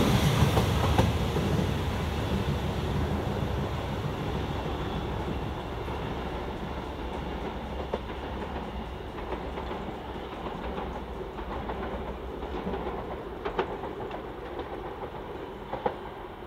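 Class 465 Networker electric multiple unit running away into the distance, its sound fading steadily, with a few sharp clicks from the wheels and track as it goes.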